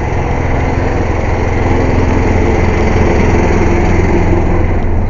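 Air compressor running with a loud, steady drone.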